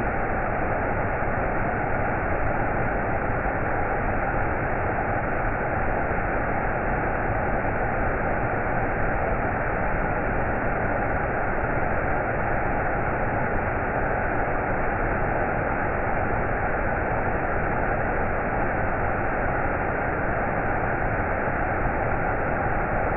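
Waterfall: a steady, even rush of falling water with no treble.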